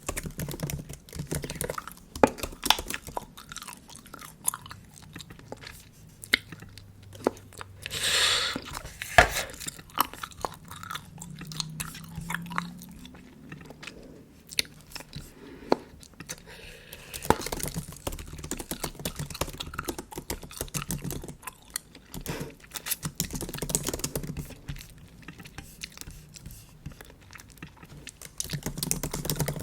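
Bubble gum chewed close to the microphone: irregular wet clicks and smacks throughout, with a louder hissing stretch of about a second around eight seconds in and a sharp snap just after.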